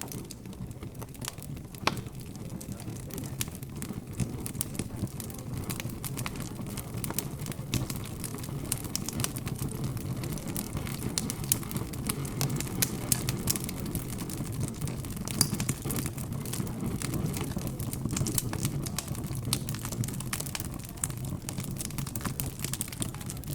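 Fireplace crackling with frequent small irregular pops and snaps, over a low steady hum of background chatter.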